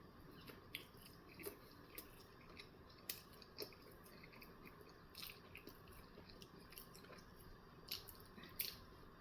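Faint mouth sounds of a person chewing a sausage, egg and cheese bagel: soft wet clicks scattered every half second or so.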